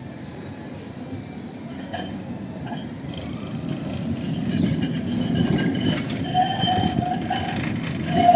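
A Lisbon street tram running past on its rails. The rumble of wheels and body grows louder about halfway through, with metallic clinking and rattling. Near the end, a steady squeal of the wheels on the rails comes in.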